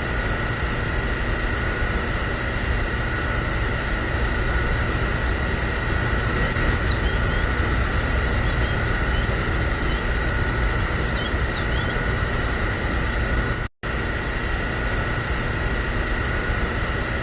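A small machine running steadily, with a low rumble and a constant high whine. Short high chirps come and go in the middle. The sound drops out for an instant about fourteen seconds in, then carries on.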